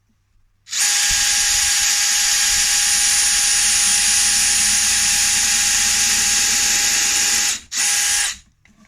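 Electric drill pre-drilling a hole in a wooden beehive box. The motor runs steadily for about seven seconds with a constant whine, stops for a moment, then runs again in a short burst.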